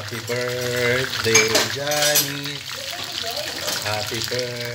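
Chicken pieces frying in shallow oil in a pan, a steady sizzle, with a few light clinks of utensils. Over it runs a series of held pitched notes that step from one pitch to the next every half second or so.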